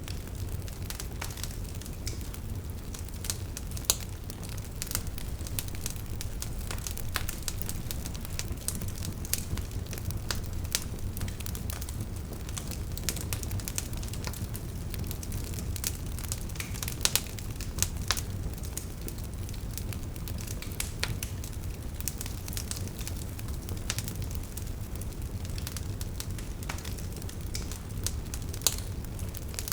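Wood fire crackling, with many sharp pops and snaps over a steady low rumble of flames; a few louder pops stand out, about four seconds in, around the middle, and near the end.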